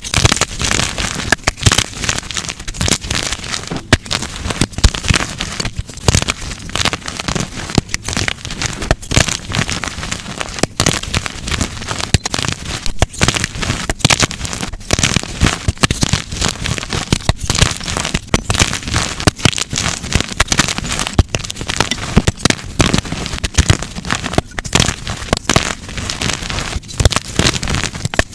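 Blocks of dyed gym chalk being crushed and broken apart by hand: a dense, continuous run of snapping and crunching crackles.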